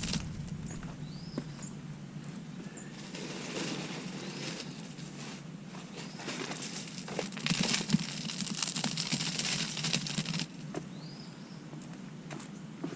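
Rustling and crunching of garden mulch being spread and handled, in irregular bursts, loudest a little past halfway. A few short bird chirps sound now and then.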